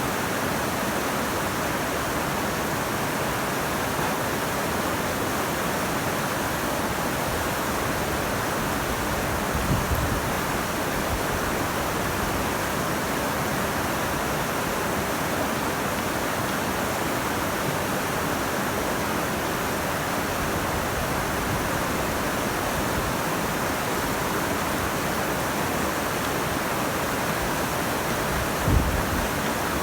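Steady rushing of glacial meltwater, an even wash of water noise. Two brief low thumps come through it, one about ten seconds in and one near the end.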